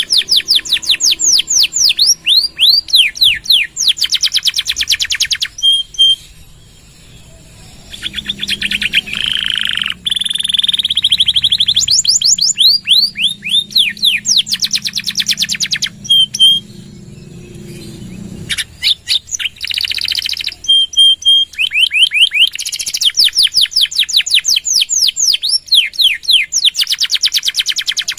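Domestic canary singing loud, fast trills: phrases of quickly repeated down-sweeping whistled notes lasting a few seconds each, broken by short pauses.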